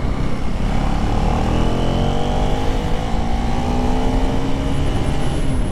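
KTM 390 Duke Gen 3's single-cylinder engine accelerating, its pitch rising steadily through the revs and dropping near the end as the throttle eases or a gear changes. A heavy rumble of wind on the helmet-mounted microphone runs underneath.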